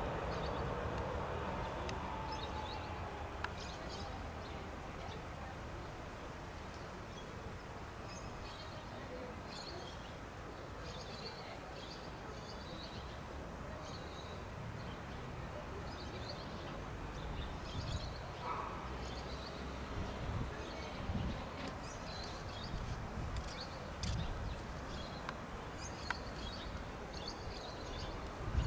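Birds chirping again and again over a steady low outdoor rumble, with a louder sound fading away over the first few seconds.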